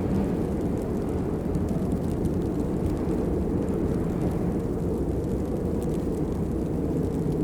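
Steady rain: a dense, even rushing hiss, heaviest in the low end, with faint scattered drop ticks above it.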